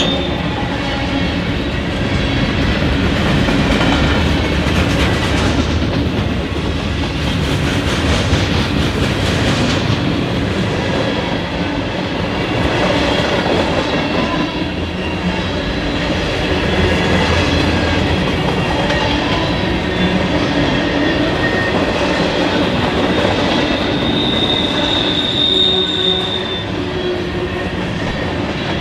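Train rolling past close by, its steel wheels running on the rails with a continuous rumble and wheel squeal; a sharper high squeal stands out near the end.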